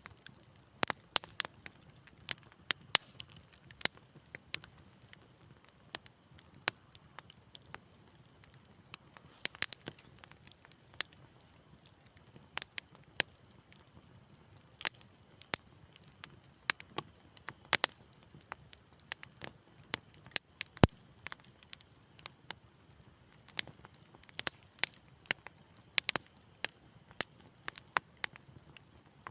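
Wood fire crackling: irregular sharp pops and snaps, several a second at times, over a faint low hiss.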